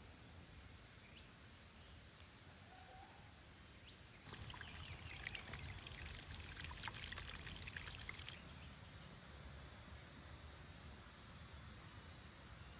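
Insects in the field keep up a steady, high-pitched drone. For about four seconds in the middle, a dense crackling rustle sounds over it.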